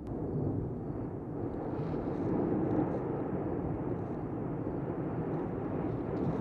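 Steady low rumbling roar of the Cumbre Vieja volcano erupting, with no distinct blasts.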